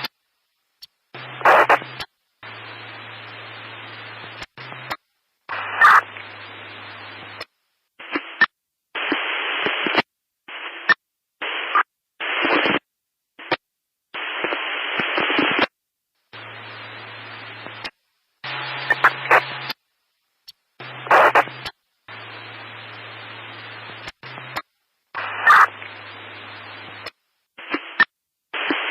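Radio static in choppy stretches of hiss that cut on and off abruptly with short dead-silent gaps. Some stretches carry a low steady hum underneath, with scattered sharp crackles.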